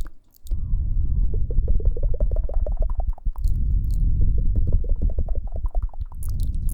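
Close-up rubbing and scratching on the ear of a KU100 binaural dummy-head microphone: a dense, crackling low rumble. It breaks off briefly just after the start and again about three seconds in, with a few faint high ticks.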